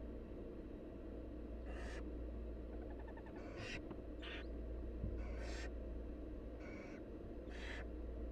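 Barn owl nestlings giving their rasping, hissing begging calls, about six separate hisses of half a second or so each, over a steady low hum.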